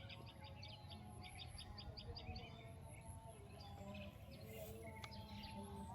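A small bird sings a fast run of short, high repeated notes for the first two seconds or so, with a few more short calls later, over faint outdoor background noise.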